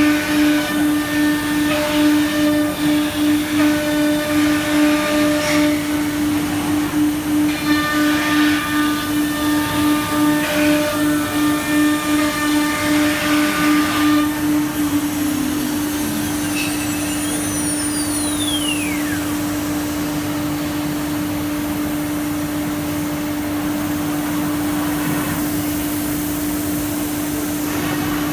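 Automatic tool-changer CNC router running with a steady whine that pulses rapidly for the first half, then evens out. About halfway through, a high tone slides steadily downward.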